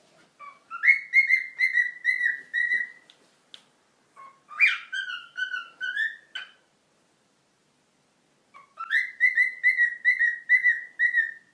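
High whistling in three phrases. Each phrase starts with a quick upward slide, then runs into a string of short repeated notes, about four a second.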